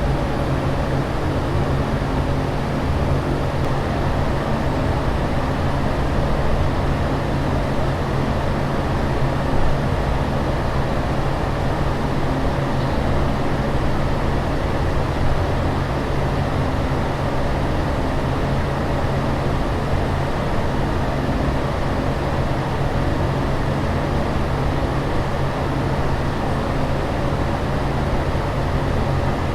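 Steady low drone of an airliner cabin in flight: an even rush of air noise over a constant low hum, with no change.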